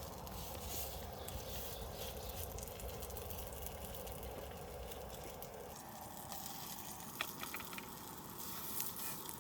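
Camp stove burner running under a frying pan with black bean burgers sizzling in it: a steady hiss whose sound changes about six seconds in, with a few light clicks near the end.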